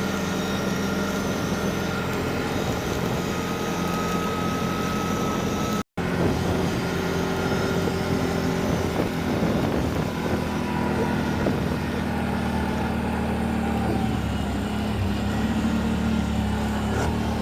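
Car driving at a steady pace: an even engine hum and road noise. The audio cuts out for a moment about six seconds in.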